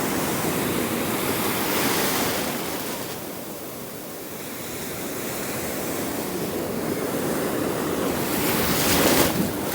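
Ocean surf washing on the beach, ebbing a few seconds in and then building to a louder surge just before the end, with wind buffeting the microphone.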